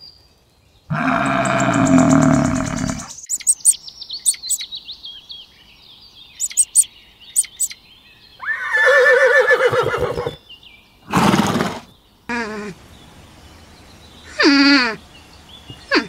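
A string of separate animal calls and grunts: a loud rough call, then small birds chirping, then a longer call with a wavering pitch, a short loud burst, and near the end a brief call that falls in pitch.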